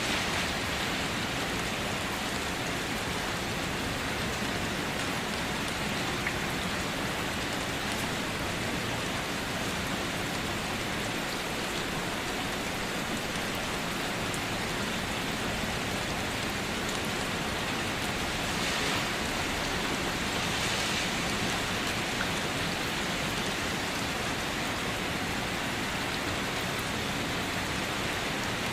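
Steady rain falling on a car, a dense even hiss of drops with a few faint individual taps.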